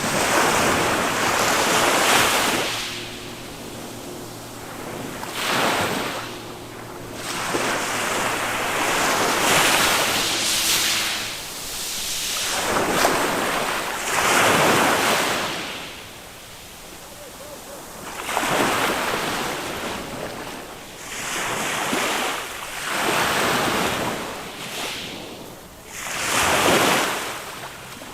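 Small waves of a calm Mediterranean sea breaking and washing up the beach, one surge every two to three seconds.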